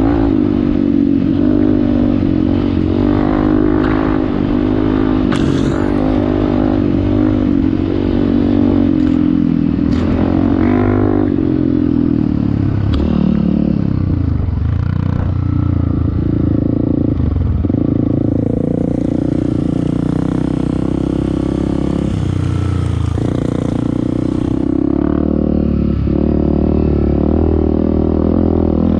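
Off-road motorcycle engine running under way, its pitch rising and falling with the throttle, with rattling and clatter. A high hiss joins in for about six seconds past the middle.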